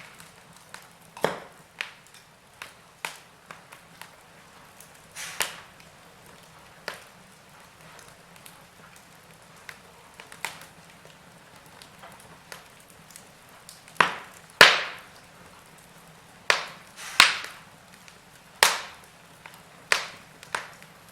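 Wood fire crackling: burning logs giving off irregular sharp pops over a faint hiss, with a run of louder pops in the second half.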